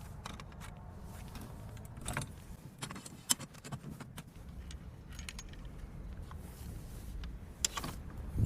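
Scattered light metallic clicks and clinks, like small metal parts being handled, with a few sharper clicks over a faint low rumble.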